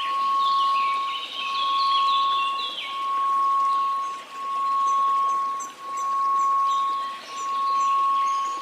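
Steady 1098 Hz sine tone that swells and fades about every one and a half seconds, over a faint hiss of white noise. High, tinkling chime-like notes come and go above it.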